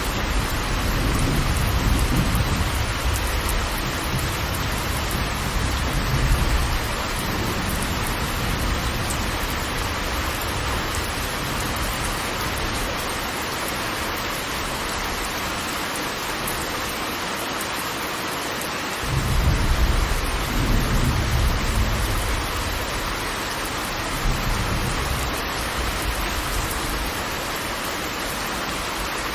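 Waterfall rushing steadily. A deep low rumble swells under it at the start and again about two-thirds of the way through.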